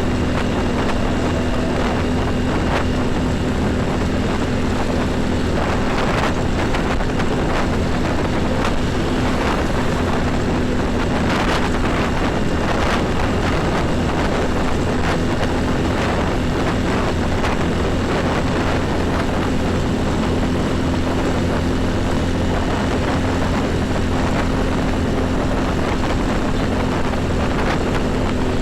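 Heavy highway traffic: steady engine and tyre noise from passing trucks and buses, with an even low engine hum beneath and a few louder rushes as vehicles go by.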